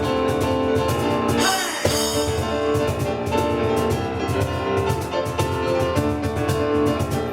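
Live instrumental music: piano over busy, steady percussion, with a brief wash of cymbal-like sound about a second and a half in.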